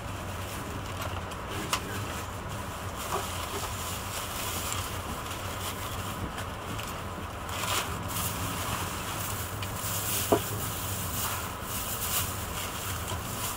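Steady rumble and rush of a Talgo 350 (Renfe AVE S-102) high-speed train running, heard from inside the passenger cabin, with a few sharp clicks, the loudest about ten seconds in.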